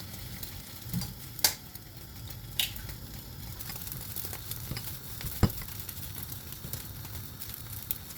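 Omelette cooking: a light, steady sizzle, with three sharp clicks of a utensil against the pan or bowl.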